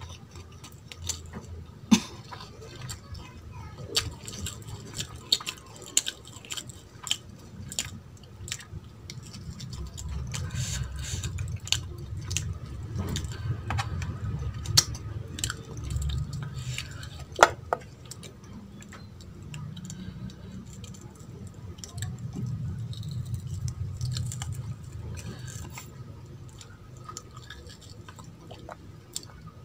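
Close-up eating sounds: chewing of rice and mutton, with wet squishes as food is mixed and scooped by hand. Sharp clicks and taps against the steel plate are scattered throughout, loudest about two seconds in and past the middle.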